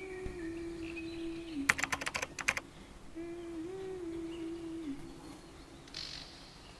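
A quick burst of keyboard typing clicks about two seconds in. Around it are two long, steady hummed tones of about two seconds each, each bending slightly in pitch.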